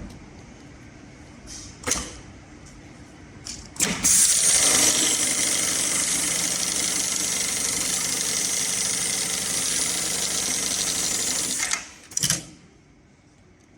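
MLK500 electronic pattern sewing machine stitching a programmed pattern into heavy webbing, running fast and steady for about eight seconds. A few sharp clicks come before it starts, and a short sharp burst follows when it stops.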